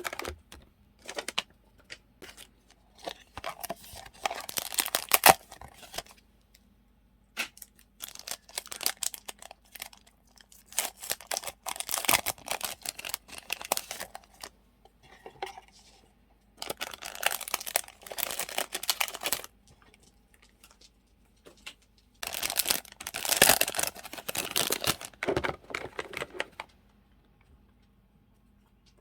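Paper and plastic sticker packets crinkling and rustling as they are handled and sorted. The sound comes in several bursts of a few seconds each, with sharp light clicks and quiet gaps between them.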